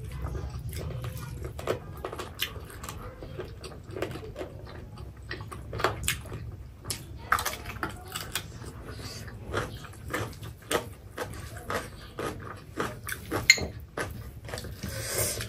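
Close-miked chewing and mouth smacks of two people eating by hand, with irregular short clicks and taps from fingers and plates, over a low steady hum.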